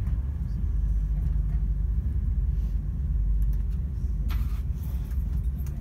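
Low, steady rumble of a passenger train heard from inside the carriage as it runs slowly along a station platform to stop, with a brief burst of hissing noise about four seconds in.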